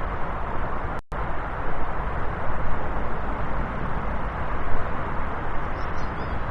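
Steady roar of an Airbus A320 airliner's jet engines, with a brief dropout about a second in.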